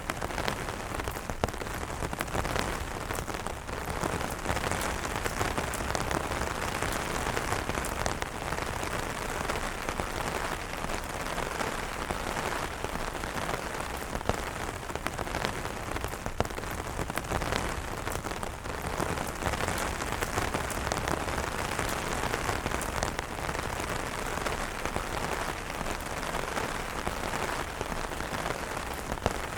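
Steady heavy rain pattering on umbrella fabric, a dense hiss of drops with many sharp individual drop ticks.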